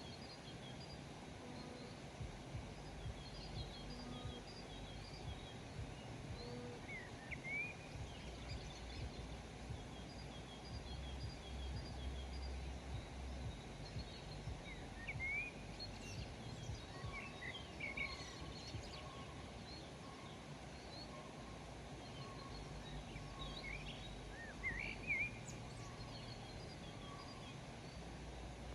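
Wild birds chirping and calling: scattered short chirps, quick runs of repeated high notes, and a lower repeated note in the second half. Behind them is a steady low background rumble.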